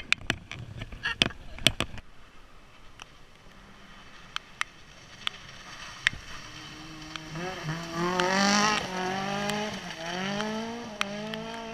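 A car engine accelerating hard through several gears: the pitch climbs, drops at each shift and climbs again, growing louder to a peak and then fading as the car passes by. A few sharp clicks come in the first two seconds.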